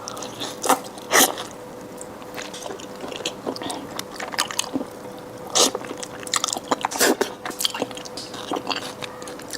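Close-miked eating of braised fatty pork belly: soft wet chewing and biting with scattered sharp mouth smacks and clicks, the strongest about a second in and again around five and a half and seven seconds. A faint steady hum sits underneath.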